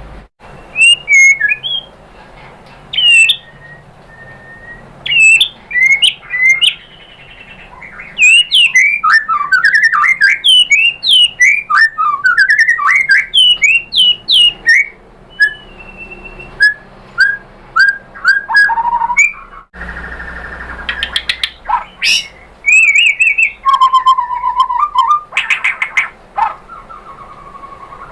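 White-rumped shama singing: a varied string of clear whistles and quick rising and falling notes, with a dense fast run of notes in the middle and a longer held whistle near the end. The background changes abruptly a couple of times, as where recordings are joined.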